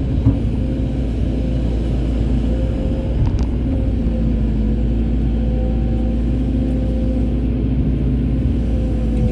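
Excavator's diesel engine running steadily under load, a continuous low drone with a steady hum above it. A couple of brief knocks come near the start and about three seconds in.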